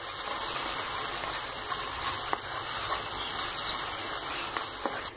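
Chopped onion and tomato sizzling steadily in hot oil in a non-stick frying pan while being stirred with a metal spoon, with a few light clicks of the spoon against the pan.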